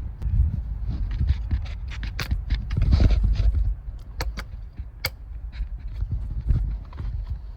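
Irregular sharp clicks and knocks over a steady low rumble.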